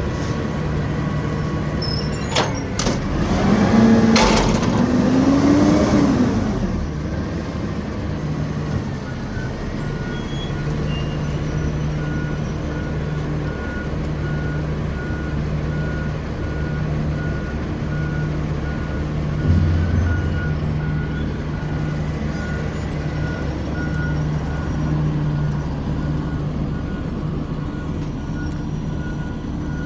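Garbage truck's diesel engine running steadily. A few seconds in it gets louder for a few seconds, with a hiss and a whine that rises and then falls. After that a faint high beep repeats at an even pace.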